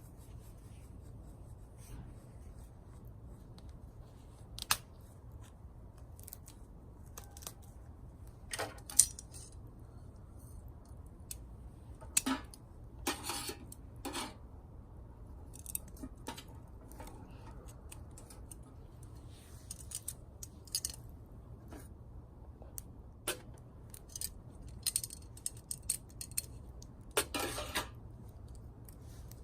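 Small dry twigs snapping: irregular sharp cracks with a few longer crackling stretches, about midway and near the end.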